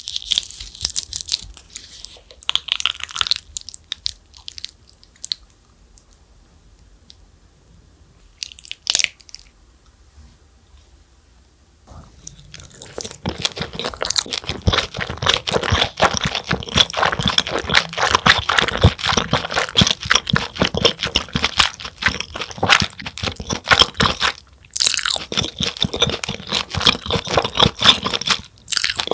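Close-miked eating sounds of a person eating cheese: a few sparse, quiet mouth clicks at first, then from about twelve seconds in, dense, loud crunching and chewing.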